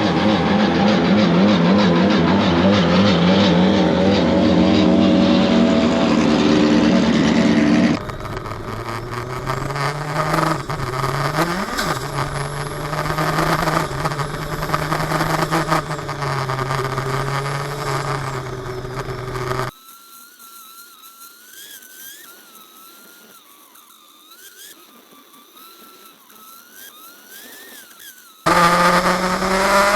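Race car engine of a 400 hp open-wheel sports car running at speed, heard in several cut-together clips. It is loud with changing pitch at first, then a steadier note with one quick blip, then a much quieter stretch with only a faint wavering whine, and loud again with the pitch rising near the end.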